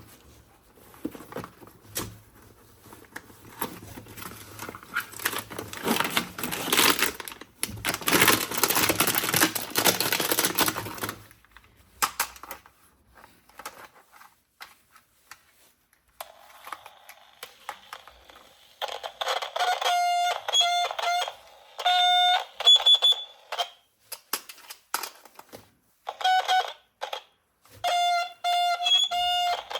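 Rustling and clicking handling noise for the first third. Then, from about halfway in, a toy gun's electronic sound effects: repeated beeping tones that switch on and off in short pulses.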